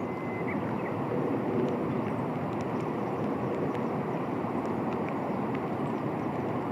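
Steady background noise, slowly swelling, with a few faint short bird chirps over it.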